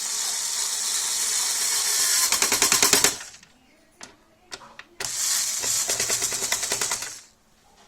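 Mixer grinder's universal motor, fitted with new carbon brushes, running in two bursts: one about three seconds long that takes on a fast fluttering rattle near its end, then a second of about two seconds. The motor now runs where it had only sparked and barely turned with its burnt-out brushes.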